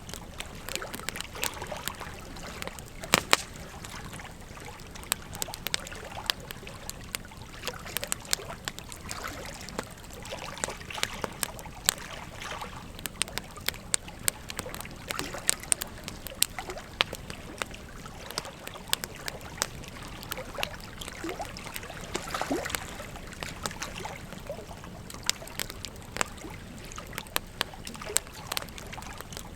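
Wood fire crackling, with frequent irregular sharp pops and snaps, over the steady rush of a flowing river.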